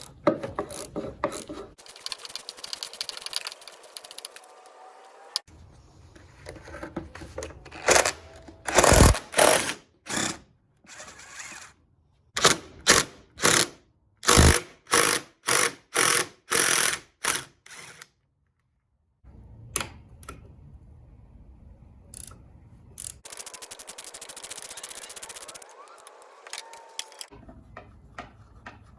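Hand ratchet working the door hinge bolts loose, in runs of short, even strokes about one to two a second, with stretches of steady rasping between.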